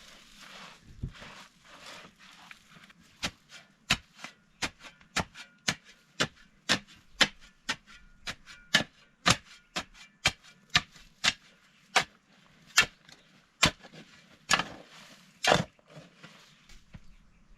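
A hand tool striking wood in a steady run of sharp knocks, about two a second, that starts a few seconds in, slows slightly and stops near the end.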